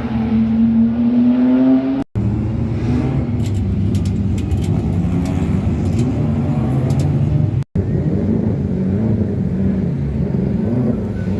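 Classic muscle car engine running with a deep rumble, rising in pitch as it is revved over the first two seconds. The sound drops out abruptly twice, about two seconds in and near eight seconds.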